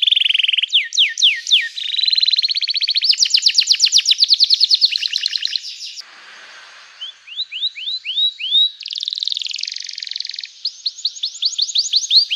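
Domestic canary singing in fast tours: rapid trills and runs of repeated down-slurred notes, with a brief pause about six seconds in before the song resumes.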